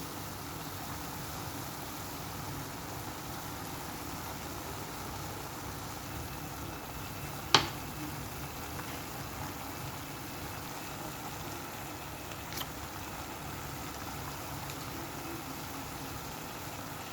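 Food cooking on the stove with a steady hiss. There is one sharp knock about halfway through and a fainter click a few seconds later.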